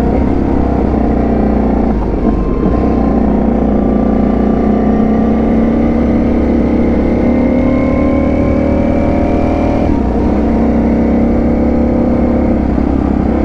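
Ducati Panigale V4 S's V4 engine running under way, heard from the rider's seat with wind rush. Its note climbs slowly as the bike gains speed, then drops about ten seconds in and carries on steadily.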